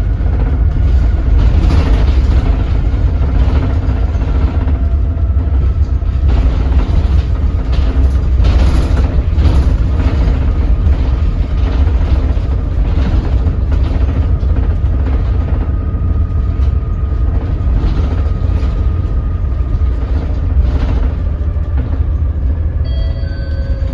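Doosan DL08K inline-six diesel of a Daewoo BS106 city bus running steadily at low speed, a heavy low rumble with a faint whine above it. A short electronic beep sounds near the end.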